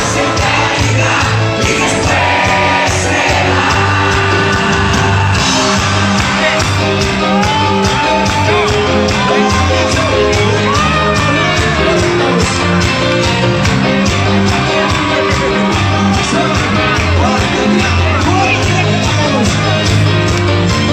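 Live band music with a steady beat, played loud, with a crowd shouting and singing along between the sung verses.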